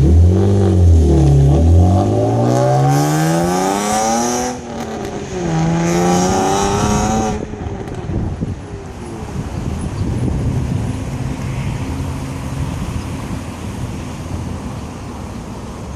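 Infiniti G35 coupe's 3.5-litre VQ V6 through a Borla exhaust with the resonators deleted, test pipes and headers: the revs climb for about four seconds, dip briefly as if at a gear change, climb again, then drop off about halfway through to a lower, steady running.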